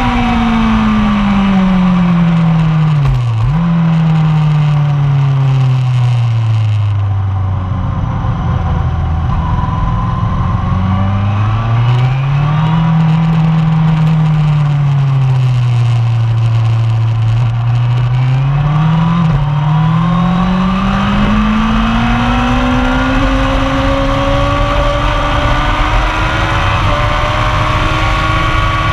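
1999 Yamaha YZF-R1's inline-four engine at track pace: the revs fall under deceleration, with a downshift about three seconds in, rise and fall again mid-way, then after another downshift climb steadily as the bike accelerates hard.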